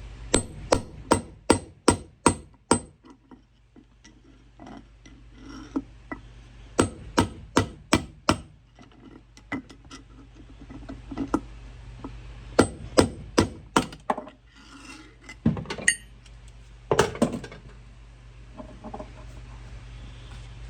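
Hammer blows knocking a wheel bearing out of a mini bike's wheel hub. The sharp metallic strikes come in runs of about three a second with pauses between, and a few more strikes near the end.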